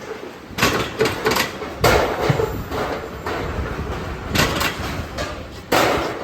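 Irregular metal clanks and knocks, about five sharp strikes, over steady machine noise in a metalworking shop.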